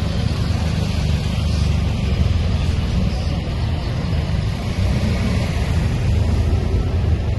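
Heavy trucks driving past in a convoy, a steady, loud, low engine rumble with road noise.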